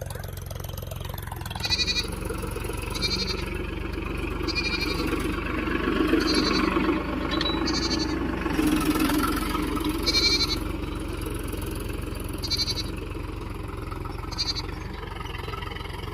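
Goats bleating again and again, short trembling calls every second or two, over a steady low rumble.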